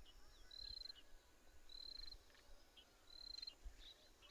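Faint cricket chirping: short trilled chirps at one steady high pitch, each about half a second long and repeating roughly once a second.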